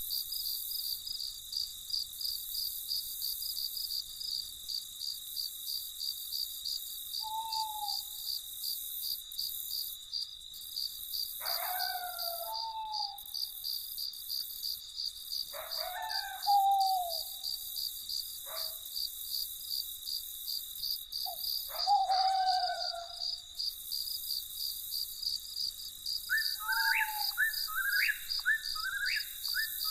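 Crickets chirping in a steady, even pulse. Now and then a bird gives a short, falling call, and near the end a quicker run of higher calls.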